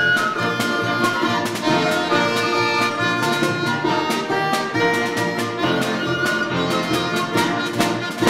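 Folk-instrument orchestra playing a lively, rhythmic passage, with accordion or bayan prominent among the instruments.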